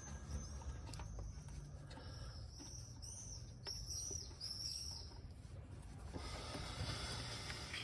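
Small birds chirping, a string of short high chirps, over a few faint clicks of a socket wrench on the oil filter canister bolt. A soft rush of noise comes near the end.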